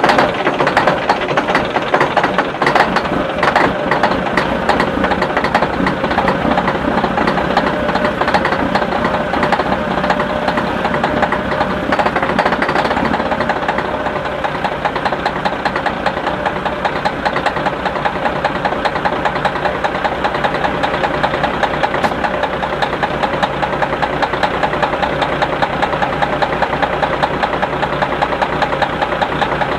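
1996 Kenworth truck's diesel engine running just after a cold start, with a rapid knocking clatter. The sharp, hissy top of the sound eases about thirteen seconds in, and the engine then runs steadier.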